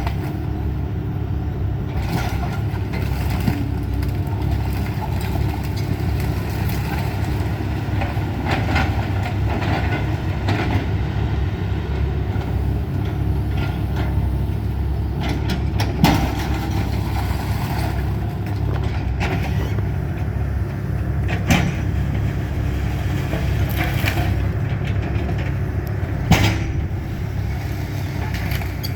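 Excavator's diesel engine running steadily during a house demolition, with a few sharp knocks and cracks of breaking material, the loudest at about sixteen, twenty-one and twenty-six seconds in.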